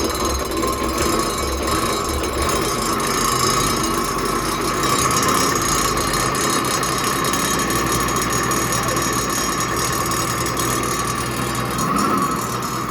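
Boat's inboard diesel engine running steadily with a rattle, just started after air was bled from its fuel lines.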